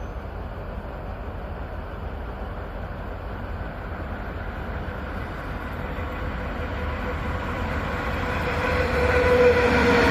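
Locomotive-hauled train approaching, its running noise growing steadily louder, with engine tones coming through in the last few seconds.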